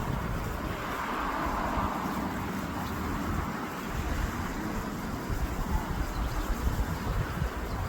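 Wind buffeting the microphone in uneven low gusts, over a steady rushing noise that swells briefly about a second in.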